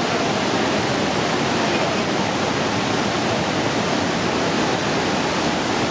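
Pailón del Diablo waterfall: a loud, steady, unbroken rush of heavily falling water.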